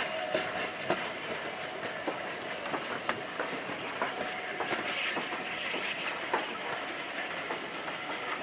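Train rolling past on the rails: a steady rumble with irregular clicks and clacks of the wheels over rail joints.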